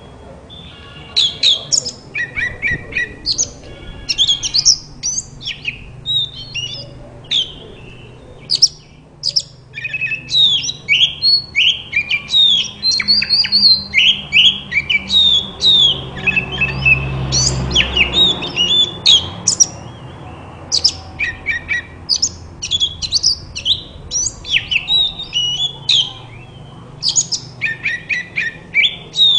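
Oriental magpie-robin (kacer) singing a fast, varied song of sharp whistles and chirps, nearly without pause, with a low rumble behind it a little past the middle.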